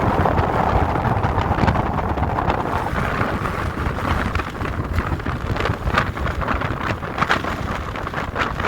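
Wind buffeting the microphone: a steady rumbling rush, with short gusty crackles in the second half.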